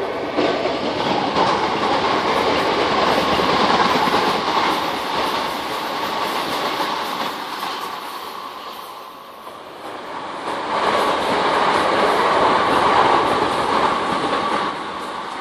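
Electric multiple-unit passenger train running past on the line, a steady rush of wheels on rail with a faint whine. The sound swells twice, dips briefly around the middle, then rises again and drops away near the end.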